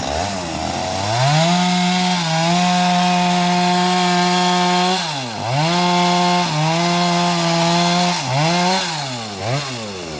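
A small engine revs up to a steady high-speed run and holds it for several seconds. It dips sharply about halfway, recovers, and revs up and down several times near the end.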